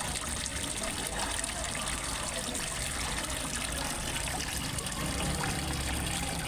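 Water trickling and splashing steadily into a fish pond, an even running-water sound with a low rumble underneath.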